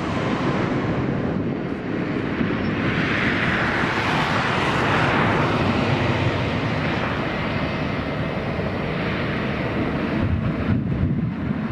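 Boeing C-32B jet airliner's engines heard as a steady broad rush as it comes in to land, swelling about three to five seconds in and then easing, the high end fading away near the end.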